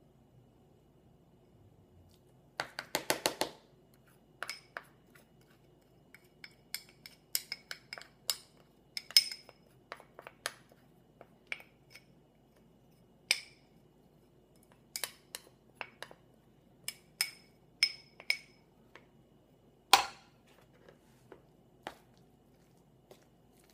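A spoon clinking against a bowl while stirring in protein powder: scattered sharp, briefly ringing clinks about once a second, with a quick rattle of clicks about three seconds in and a louder clink late on.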